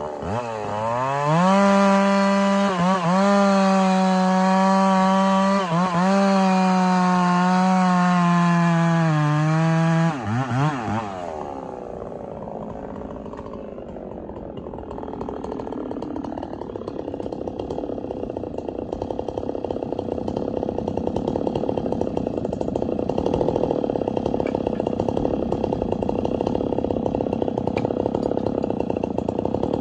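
Chainsaw held at full throttle cutting through wood for about ten seconds, its pitch dipping briefly a few times under load, then dropping away. After that a duller, rougher running noise slowly grows louder.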